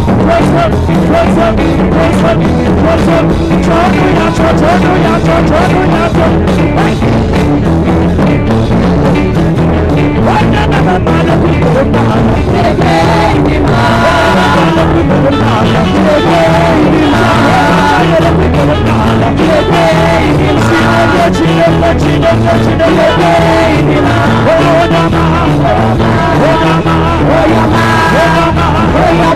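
Live gospel praise band playing an upbeat groove with a steady beat, with some singing over it.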